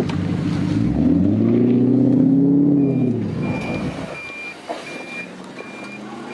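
A car engine revs up, rising in pitch, then drops away over the first three seconds. From about three seconds in, a high electronic beep repeats steadily, roughly every 0.7 s: a vehicle's reversing warning.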